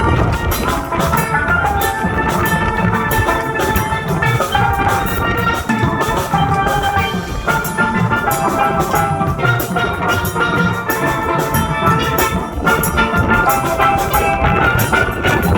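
Steel band playing: steelpans carry a melody of ringing notes over a drum kit and percussion beat.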